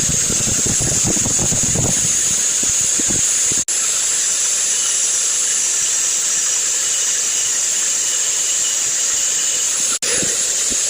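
Drill running an annular cutter in steel: a steady, loud high-pitched whine and hiss, with crackly cutting noise in the first few seconds. The sound drops out briefly twice, a little under 4 seconds in and near the end.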